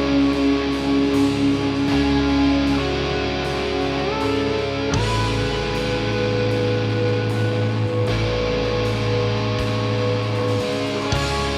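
A metal band playing live: electric guitar and bass hold long sustained chords, with the bass note changing every two to three seconds.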